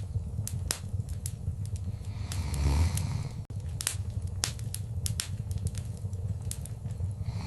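Wood fire crackling in a fireplace: irregular sharp pops and snaps over a low rumble of flame, with a brief louder rush of flame about two and a half seconds in. The sound cuts out for an instant about three and a half seconds in.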